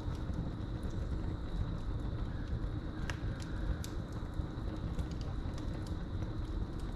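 Wood fire burning in a fireplace: a low steady rush with scattered sharp crackles and pops, the strongest a little past the middle. Crickets trill steadily in the background as a thin high tone.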